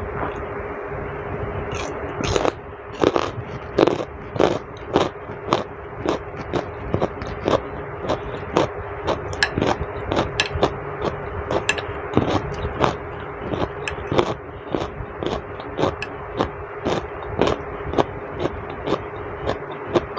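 Close-up crunchy chewing of boiled vegetables, a carrot stick among them. It starts about two seconds in and goes on at roughly two crunches a second, over a steady background hiss with a faint hum.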